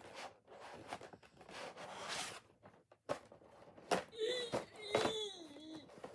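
Packaging rustling and crinkling as a new hair dryer is lifted out of its box. Near the end come a few short squeaks that glide up and down in pitch.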